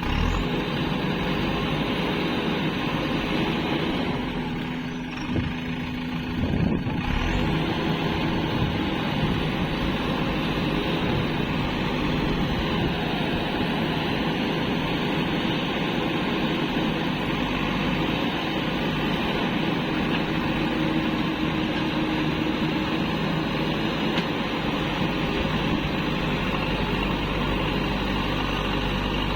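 Heavy diesel machinery engine running steadily, with a brief dip and a couple of sharp knocks about five and seven seconds in.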